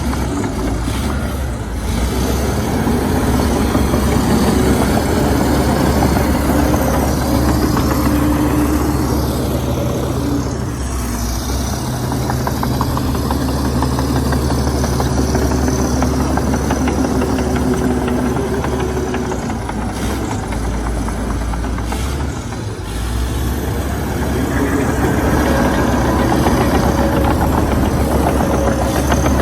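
Diesel engine of a Komatsu D61EX bulldozer running under load. Its note eases off and picks up again several times, with a brief dip about two seconds in, around eleven seconds and around twenty-two seconds.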